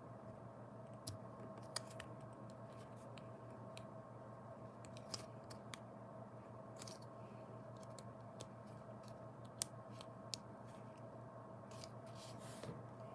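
Faint, scattered clicks and short light scrapes from small parts and hand tools being worked on a toy car, over a steady low hum.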